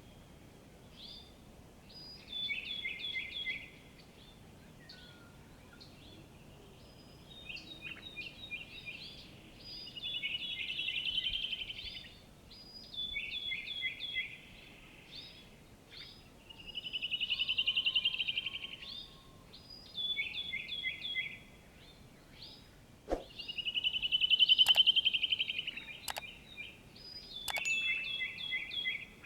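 Songbirds singing in repeated phrases of quick high notes, each few seconds followed by a fast trill; the trill about three-quarters of the way through is the loudest. A few sharp clicks come in the last seconds.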